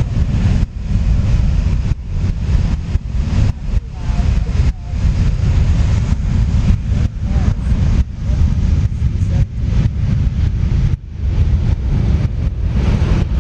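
Loud, gusty low rumble of wind buffeting the microphone, choppy with frequent brief dropouts.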